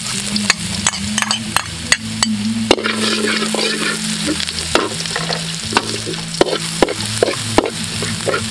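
Minced garlic sizzling in hot oil in a steel wok, stirred with a metal spatula that scrapes and clinks against the pan in irregular strokes.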